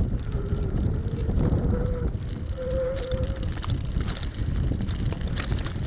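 Wind buffeting the microphone, a steady low rumble. A faint tone rises in pitch from about half a second in and fades out by about three and a half seconds.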